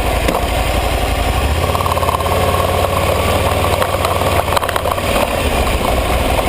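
Aprilia ETV 1000 Caponord motorcycle's V-twin engine running, its pitch changing about a second and a half in.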